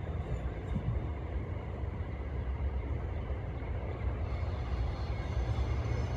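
Amtrak passenger train approaching in the distance: a low, steady rumble. Faint high-pitched tones come in about four seconds in.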